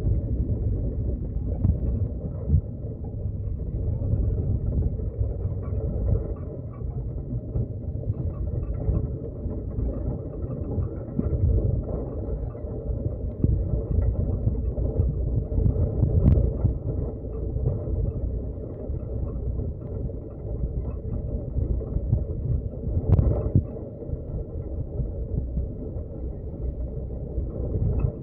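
Steady low rumble of a road vehicle on the move, with a couple of sharp knocks, one about midway and one about two-thirds of the way through.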